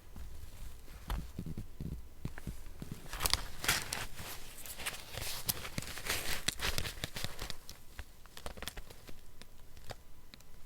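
Paper being handled for a collage, crinkling and tearing in irregular rustling bursts with sharp crackles, busiest in the middle stretch.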